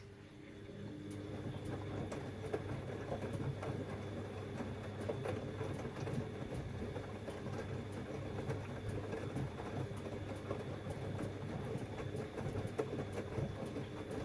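Siemens Extraklasse XLs 140 A washing machine turning its drum during the wash, starting about half a second in: steady motor hum with a faint high whine, and laundry and water tumbling inside the drum.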